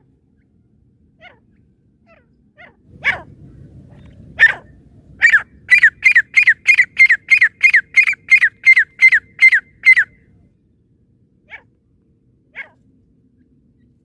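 Female francolin (teetar) calling: a few scattered single notes, then a fast run of about fourteen sharp, downward-sliding calls at roughly three a second, and two last single calls near the end.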